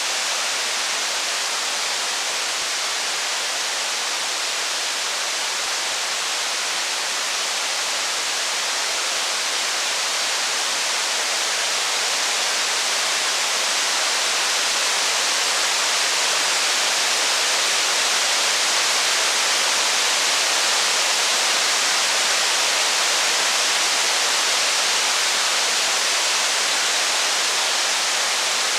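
Heavy rain falling in a steady, even hiss that swells slightly in the middle.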